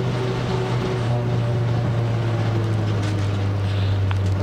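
Nissan March race car's engine running steadily at low revs, heard from inside the cabin on the cool-down lap after the finish.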